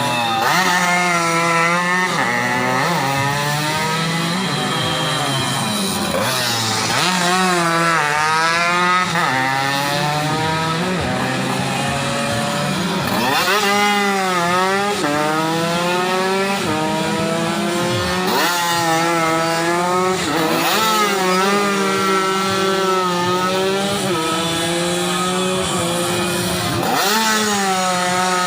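Tuned 120cc underbone race motorcycles running hard past the trackside, engines revving up through the gears and falling in pitch as they go by, several bikes overlapping at once.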